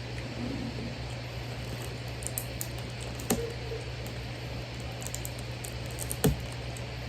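Eating and food-handling noises over a steady low hum: two sharp knocks about three seconds apart and light scattered clicks.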